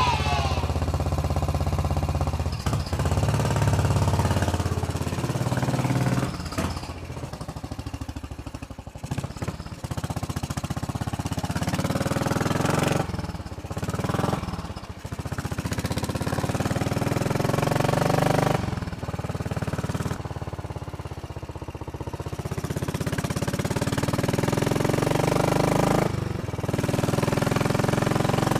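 Royal Enfield Bullet Machismo 500's single-cylinder engine running under way. The sound dips briefly several times as the bike is ridden along.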